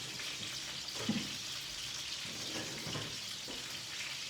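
Chicken sizzling in a frying pan, a steady hiss, with a soft thump about a second in.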